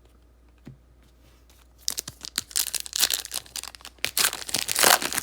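A 2020 Panini Prism Draft Picks foil card-pack wrapper being crinkled and torn open, starting about two seconds in as a run of sharp crackles, loudest near the end.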